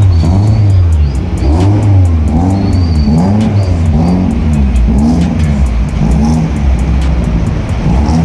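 Car engines revving in repeated throttle blips, the pitch rising and falling about twice a second, over music with a steady beat.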